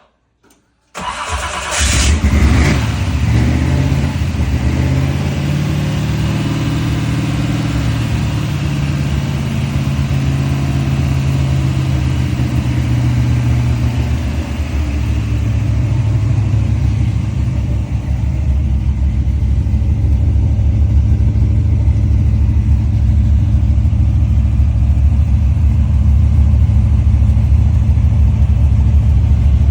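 1971 Chevrolet Nova engine on a cold start: it fires about a second in with a brief rev flare, then runs at a steady fast idle that settles a little lower about halfway through.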